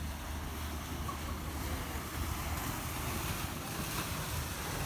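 Surf washing on a beach, with wind buffeting the microphone as a steady low rumble.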